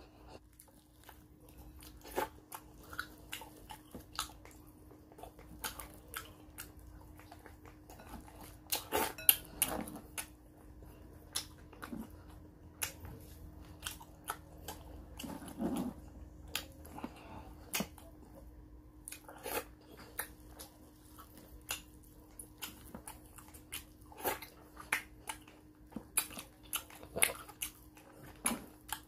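Close-up chewing and lip-smacking of a person eating fried fish with his fingers: irregular short wet smacks and clicks.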